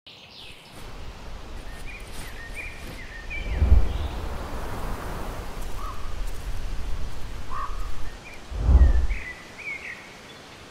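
Woodland ambience: small birds chirping in short calls over a steady outdoor hiss, with two low rushing swells about four and nine seconds in.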